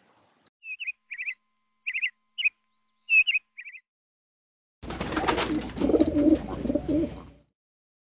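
A string of short, high bird chirps, then, about five seconds in, a pigeon's low, wavering cooing over background noise for about two and a half seconds.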